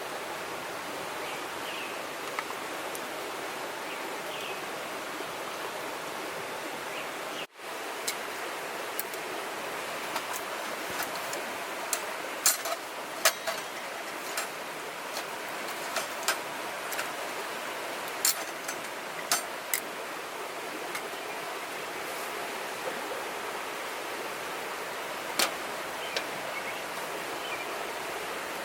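River water flowing steadily. After a brief break about seven seconds in, irregular sharp clicks and snaps sound over the flowing water.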